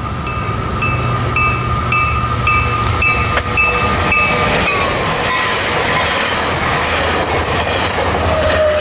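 Coaster commuter train passing close by, its bilevel cars clattering over the rails with rhythmic wheel clicks. A steady tone drops in pitch as the cab car goes by, with a short high tone repeating about twice a second during the first few seconds. Near the end the diesel locomotive pushing at the rear passes with a low hum.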